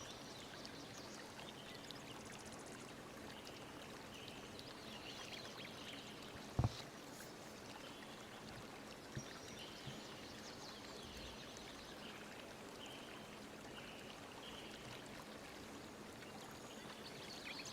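Faint steady background hiss with scattered faint short high-pitched sounds, and one brief knock about six and a half seconds in.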